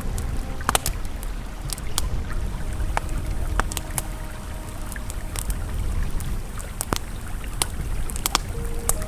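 A river flowing steadily, with a campfire crackling over it in sharp, scattered pops. A few faint, held ambient tones sit softly underneath.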